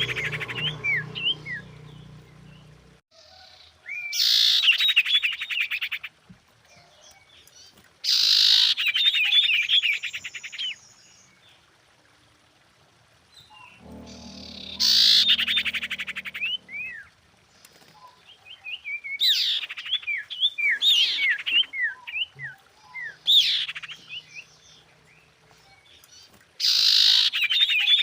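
Female common iora calling to a male: repeated bouts of a fast, buzzy trill, each followed by a few short down-slurred whistles, coming every few seconds.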